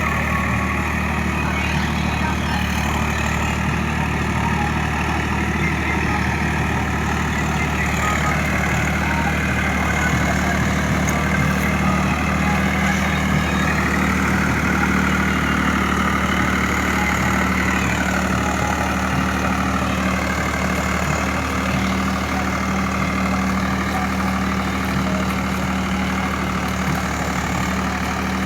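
Swaraj 744 FE tractor's diesel engine running steadily, with a higher mechanical whine that shifts in pitch for several seconds in the middle.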